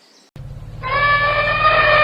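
A low hum, then about a second in a loud, long, steady-pitched farm-animal call begins.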